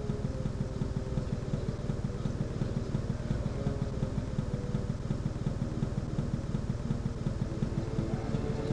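Motorcycle engine idling, a steady fast low pulsing that doesn't change.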